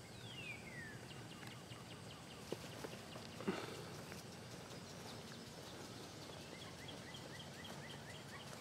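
Birds calling faintly: a falling whistle in the first second, then a rapid run of short chirps, about four a second. A single sharp knock about three and a half seconds in.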